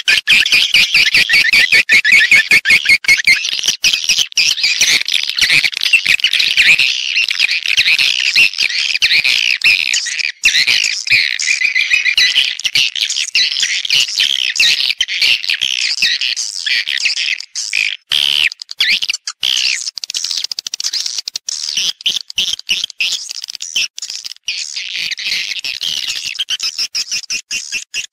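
Swiftlet calls: a dense, continuous chorus of rapid high chirps and twitters, with a short dip about two-thirds of the way through. It is a lure call of the kind played in swiftlet-farming houses to draw the birds in to nest.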